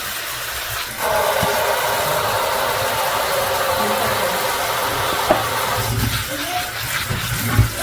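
Countertop blender blending a smoothie: the motor starts abruptly about a second in, runs steadily for several seconds, then eases off near the end.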